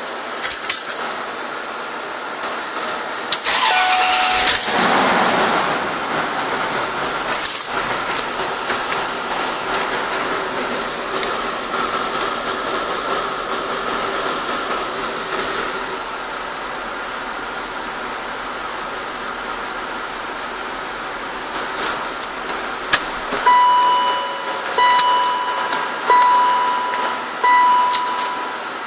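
A car engine is cranked and catches about four seconds in, started without the engine-protection code being entered, then runs steadily. Near the end the low engine hum drops away and a warning beep starts repeating about once a second.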